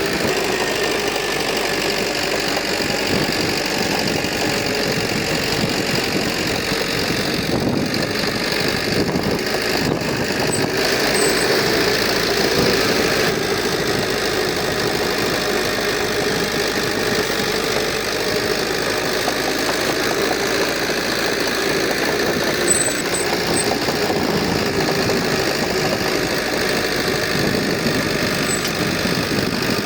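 Diesel engine of heavy earthmoving machinery running steadily under work, swelling slightly about twelve seconds in.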